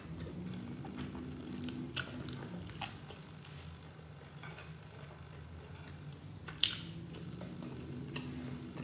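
Close-up chewing and mouth sounds of a person eating, with scattered light clicks of wooden chopsticks against the dish; one sharper click comes about two-thirds of the way through. A low steady hum sits underneath.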